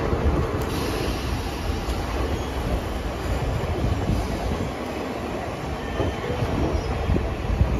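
Passenger express coaches running on the track, heard from on board: a steady low rumble of wheels on rail with a faint thin squeal above it.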